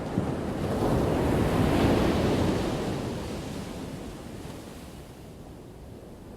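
Ocean wave breaking: a wash of surf that swells to its loudest about two seconds in, then recedes and dies down to a softer hiss.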